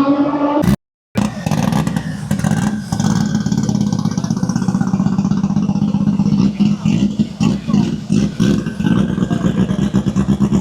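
A car engine at a drag strip revving, cut off suddenly just under a second in. It is followed by a loud, steady, rough-running engine rumble that wavers rapidly in loudness, typical of a race car idling.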